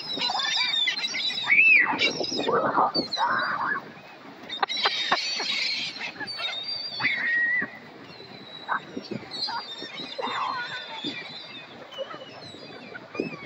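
A flock of seagulls calling: many short overlapping squawks and cries, busiest in the first seven seconds with a dense cluster around five seconds in, then thinning out to scattered calls.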